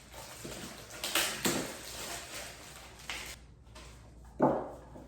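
Rustling and handling of packaging while a sewing machine's foot pedal is lifted out of its box, with scratchy bursts about a second in and a brief squeak near the end.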